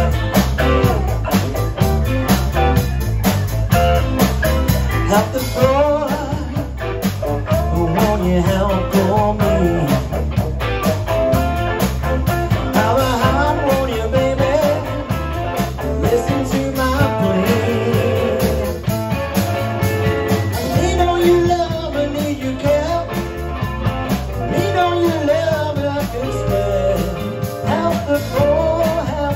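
Blues-rock band music: a guitar line over bass and a steady drum beat.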